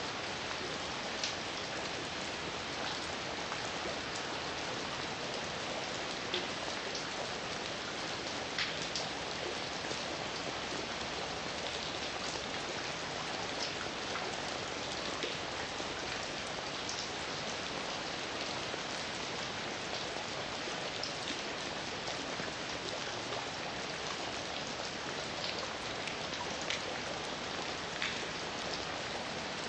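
Heavy, steady rain falling, an even hiss with individual drops ticking sharply here and there.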